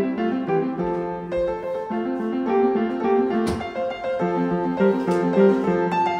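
Background piano music: a gentle melody of single notes and chords in a steady rhythm. A brief sharp click cuts through it about halfway.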